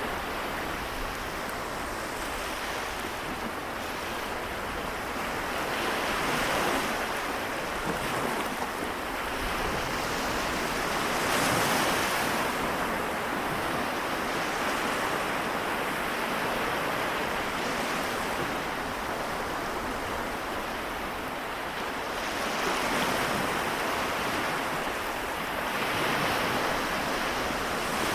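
Small waves of the Seto Inland Sea washing onto the shore, a continuous wash with a wave swelling and breaking every few seconds.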